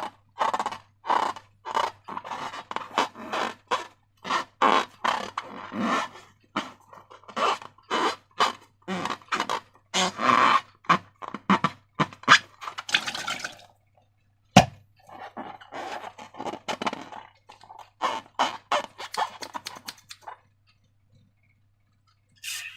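Slime being squished and worked by hand in short squishing sounds, two or three a second, with one sharp click about two-thirds of the way in. The squishing stops shortly before the end, when a brief squeak comes in.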